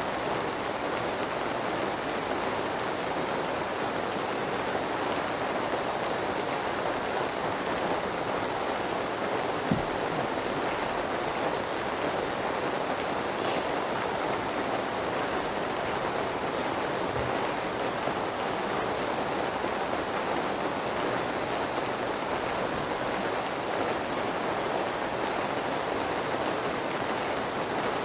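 Steady rain, an even hiss with no change in level. A single soft knock about ten seconds in.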